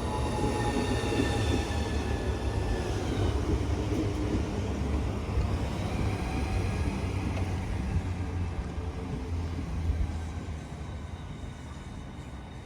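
Southeastern electric multiple-unit train running through the station with a rumbling wheel-and-rail noise and a motor whine that falls slightly in pitch over the first few seconds. The noise dies away from about ten seconds in as the train moves off.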